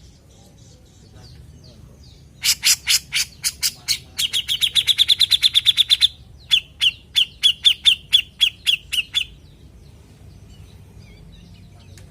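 Grey-cheeked bulbul (cucak jenggot) calling. About two seconds in comes a run of sharp, spaced notes, then a fast rattling trill for about two seconds, then a slower string of about ten notes. It falls quiet for the last few seconds.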